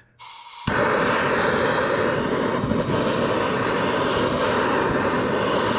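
Heat gun running with a steady blowing roar, heating an aluminum engine case so a bearing can be pressed in. It starts abruptly under a second in and holds level.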